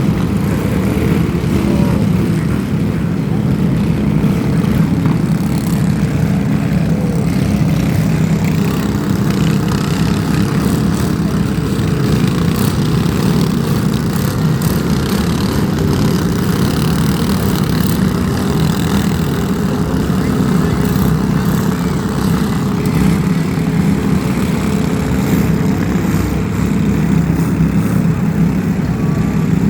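Vehicle engine running steadily with a loud, low drone.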